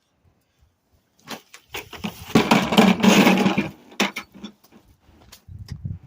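Handling noise: scattered clicks and knocks, then a loud rustling clatter lasting about a second and a half, and more knocks after it.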